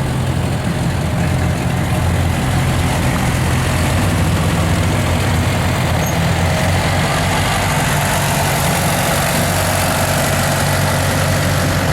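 A vehicle engine idling steadily with a low, even pitch.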